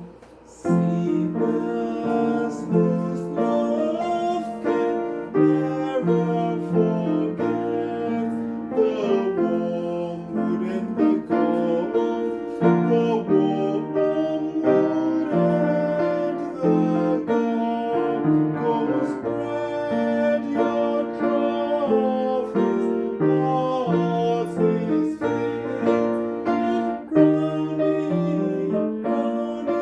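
Instrumental hymn played on piano in full held chords, picking up again after a brief pause at the very start.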